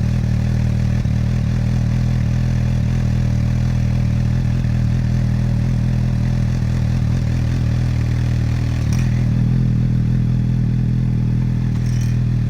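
2018 Suzuki GSX-S750's inline four-cylinder engine idling steadily at an even pitch, with a slight change in tone about nine seconds in.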